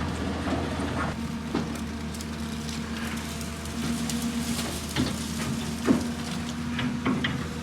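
A heavy machine's engine running steadily, with several sharp knocks and clanks over it, the loudest about six seconds in.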